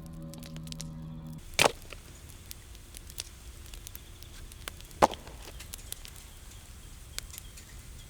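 Background music cuts off about a second and a half in. Then a campfire crackles with scattered small pops, broken by two loud sharp knocks about three and a half seconds apart.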